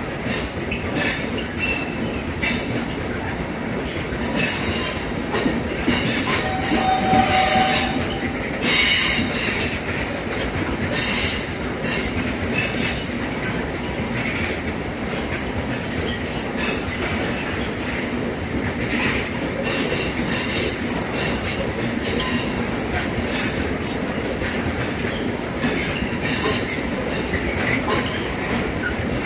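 Heavy freight train of loaded coal wagons rolling slowly past. The wheels clack over the rail joints, with intermittent high squealing from wheel flanges on the track, loudest about a quarter of the way in.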